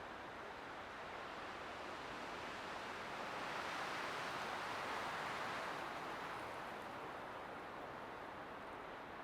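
Light wind blowing steadily, swelling in a soft gust about four seconds in and easing off again.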